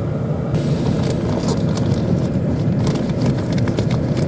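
Pickup truck carrying a camper driving slowly, a steady low engine and road rumble. About half a second in, a crackle of many small clicks starts up over it, like gravel popping under the tyres as the truck rolls onto a rough surface.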